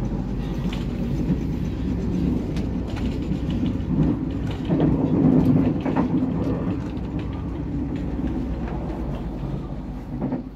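Running noise inside a moving passenger train carriage: a steady low rumble with scattered faint clicks and knocks, a little louder about halfway through.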